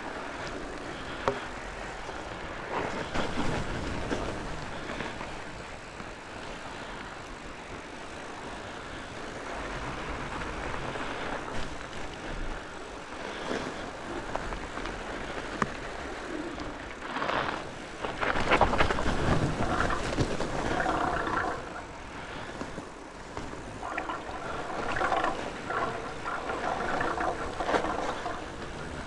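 Fat bike being ridden along a dirt trail: wide tyres rolling over rough ground and the bike rattling over bumps, with wind on the microphone. It gets louder and rougher over a stretch about two-thirds of the way in and again near the end, with a few sharp knocks.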